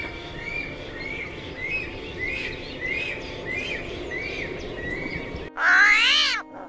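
A bird chirping over and over, a short call about twice a second, over a steady outdoor background hiss. About five and a half seconds in, a much louder drawn-out sound takes over, rising then falling in pitch.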